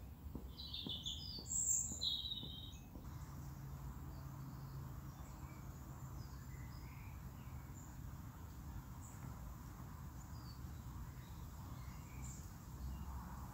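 Songbirds calling, with a few loud, bright chirps close by over the first two seconds or so, then fainter scattered calls over a low steady hum.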